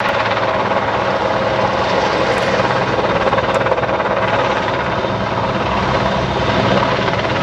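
Large helicopter's turbine engines and rotors running, a loud, steady sound with a constant whine, starting abruptly.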